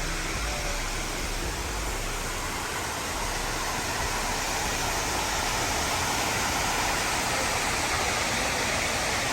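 Steady rush of water pouring down the walls of a 9/11 Memorial reflecting-pool waterfall.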